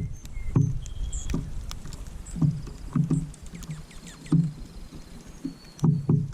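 Birds pecking and hopping right at the camera: irregular hollow knocks and taps close to the microphone, a few a second, thinning out in the middle, with a few short, faint high chirps.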